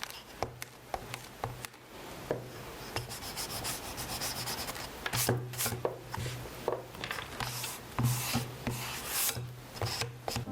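Art tools working on sketchbook paper: irregular rubbing and scratching strokes with scattered light taps.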